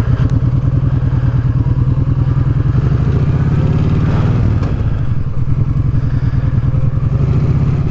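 Kawasaki Vulcan Vaquero's 1700 cc V-twin running on the move through an exhaust with its baffles taken out, a fast, even thudding pulse that shifts pitch a little partway through.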